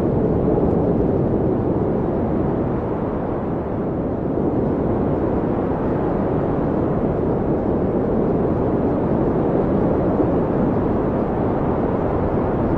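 Blizzard wind blowing steadily: a loud, low rushing noise with no whistling tones.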